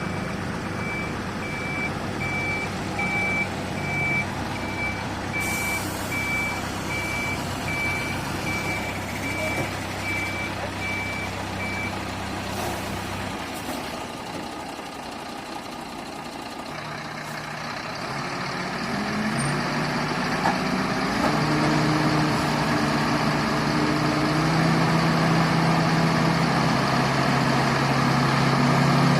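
A reversing alarm beeping evenly in a single tone over a diesel engine running, for about the first twelve seconds. The engine sound then dips, and from about halfway through a heavy diesel engine revs up in steps and runs louder.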